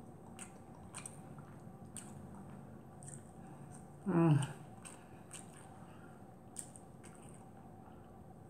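Quiet chewing with small mouth clicks as fried whiting fish is eaten by hand. About four seconds in comes a brief hummed voice sound that falls in pitch.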